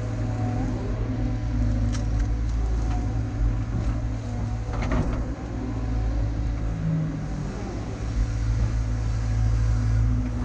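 Diesel engine of a CAT tracked earthmover running steadily at working speed, with a low steady drone and a few short metallic clanks, the clearest about halfway through.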